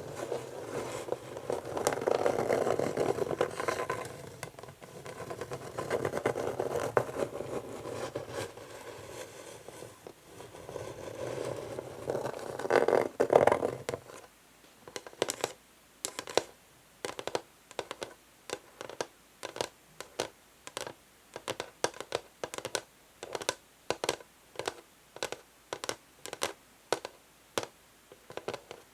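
Natural fingernails scratching an old wooden chess board in long, deep strokes, then, about halfway through, tapping on it about twice a second.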